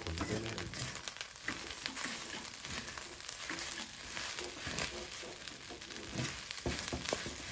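Fried rice sizzling in a wok while a wooden spatula stirs and scrapes it: a steady frying hiss broken by scattered scrapes and taps of the spatula.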